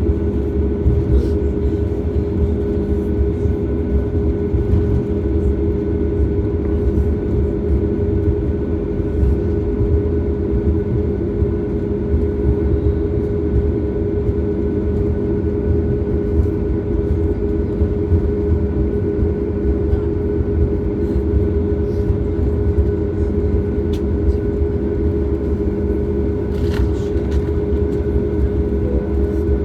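Steady cabin noise inside a Boeing 737 MAX: a constant low rumble of engines and airflow with a steady hum of several fixed tones from its CFM LEAP-1B engines.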